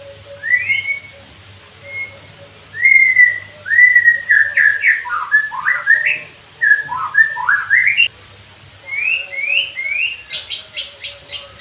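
White-rumped shama (murai batu) singing: a run of clear whistled phrases, many of them rising or falling glides, then near the end a fast series of short, sharp, high notes. A faint steady hum runs underneath.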